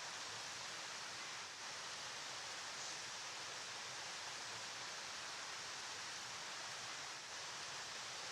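Flowing river water rushing steadily, an even hiss without breaks.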